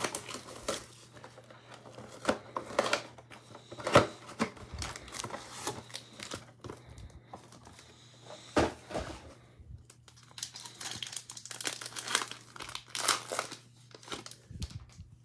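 Foil card packs and box wrapping being torn open and crinkled by hand, with irregular crackling and rustling and a few sharper tears, the loudest about four seconds in and again near the middle.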